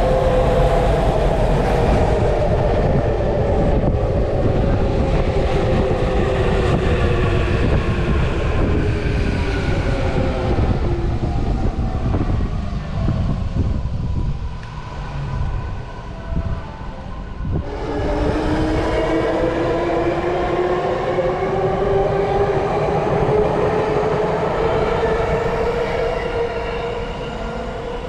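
Electric commuter train's traction motors whining down in pitch as it brakes into the platform, with wheel and track noise. About two-thirds through, a train's motors start up with a whine climbing in pitch as it accelerates away.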